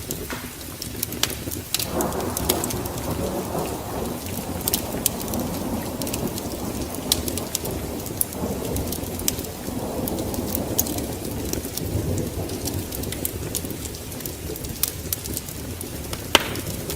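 Steady rain with thunder rolling in low swells, one from about two seconds in and another near the middle. Scattered sharp crackles, like a wood fire popping, sound throughout.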